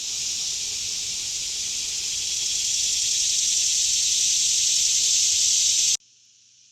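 A chorus of cicadas buzzing: a loud, steady, high shrill drone that grows slightly louder. It cuts off abruptly about six seconds in, and a much fainter cicada buzz continues.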